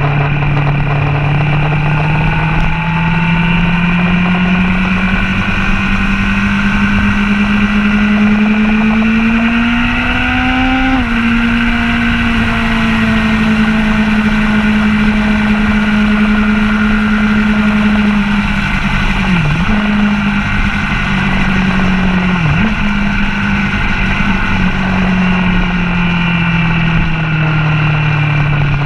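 Sport motorcycle engine under way on a race track, heard from a camera mounted on the bike: the engine pitch climbs steadily under acceleration, drops sharply at an upshift about a third of the way in, then holds and eases off, with two brief dips in pitch later on.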